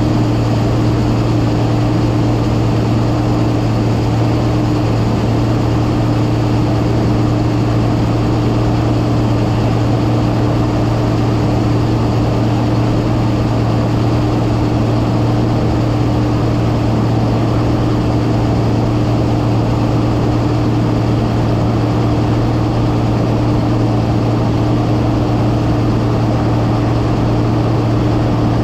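Massey Ferguson 9690 combine harvester running steadily, an even, constant engine and machinery drone with a steady low hum and no change in pitch.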